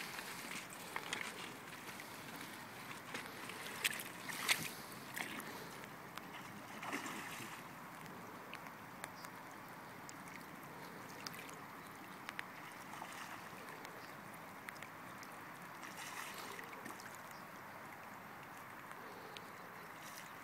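Steady rush of flowing river water, with a few short sharp sounds about four to five seconds in and again a little later.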